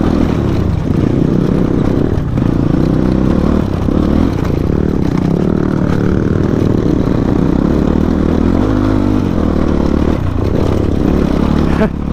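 Motorcycle engine running continuously while the bike is ridden over a rough off-road track.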